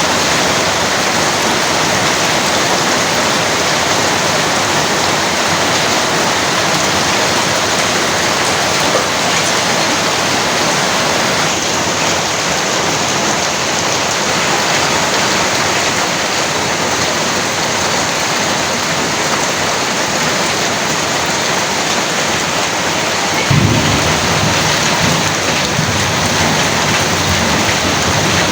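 Heavy rain pouring down steadily, with a low rumble of thunder setting in near the end.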